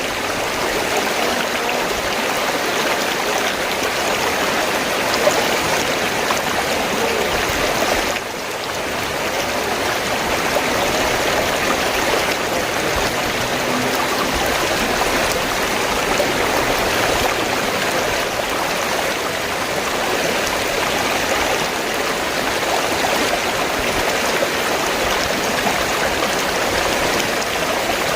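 River water flowing steadily, an even rushing sound with a brief dip in level about eight seconds in.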